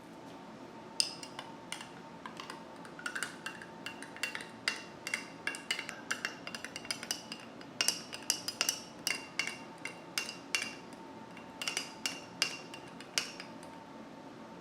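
A metal spoon stirring a drink in a glass, clinking against the glass two to three times a second with short ringing notes.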